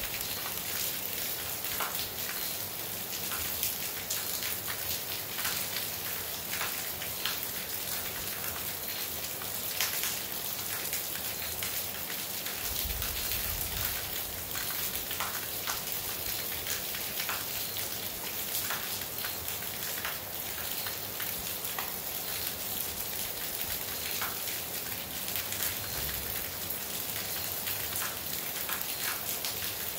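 Steady rain falling, with frequent sharp ticks of individual drops hitting close by.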